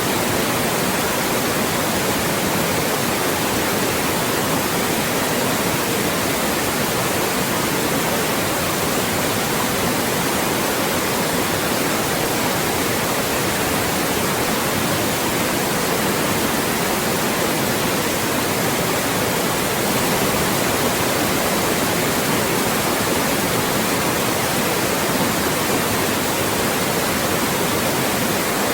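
Loud, steady white noise: an even, unchanging hiss spread across all pitches.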